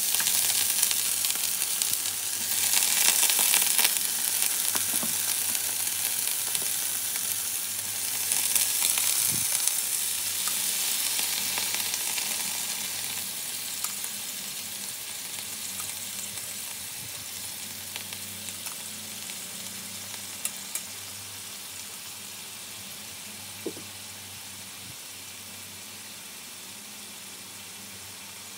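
Mantis shrimp and sliced garlic frying in garlic butter in a pan: a loud sizzle that swells twice as the wet boiled shrimp go in, then settles to a quieter, steady sizzle. A few light clicks of metal tongs against the pan.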